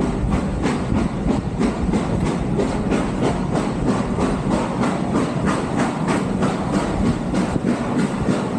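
Steam train of the North Yorkshire Moors Railway running, with a steady, even beat of about four to five strokes a second over the constant noise of the moving train.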